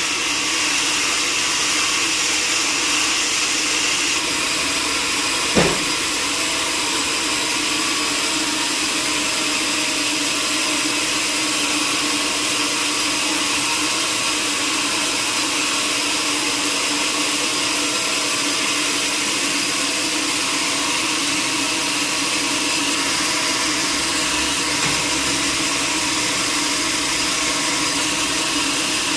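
Sawmill machinery running steadily with a constant whine, and a single sharp knock about five and a half seconds in.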